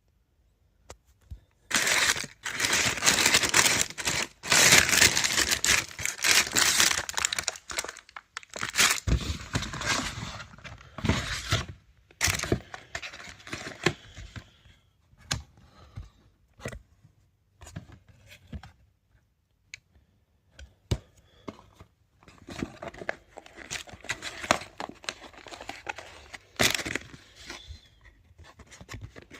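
Paper and cardboard takeaway packaging being handled: rustling, crinkling and tearing in bursts, with small knocks. The busiest stretch is from about two to eight seconds in, with sparser handling after that and another burst near the end.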